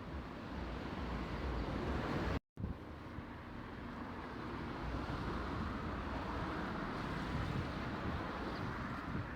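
Steady road traffic noise with wind on the microphone, broken by a split-second dropout to silence about two and a half seconds in.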